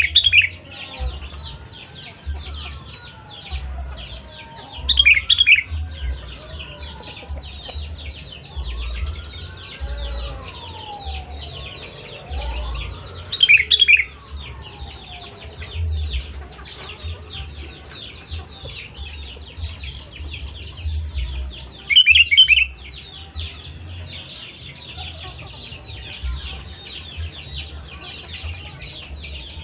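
Sooty-headed bulbul (kutilang) giving short, loud calls four times, over constant rapid chirping from many birds. In the first half, slower rising-and-falling whistled notes also sound.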